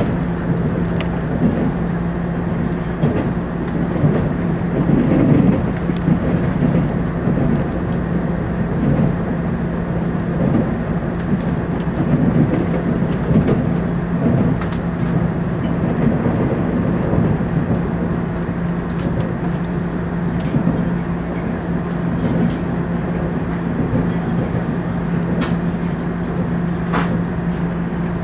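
Cabin noise inside a Taiwan Railways TEMU2000 Puyuma tilting electric train running at speed: a steady rumble of wheels on track with a steady low hum under it and a few faint clicks.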